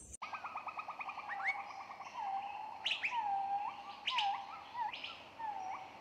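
Small birds calling: a rapid trill of even notes, then a string of short swooping whistles, several ending in a sharp upward flick.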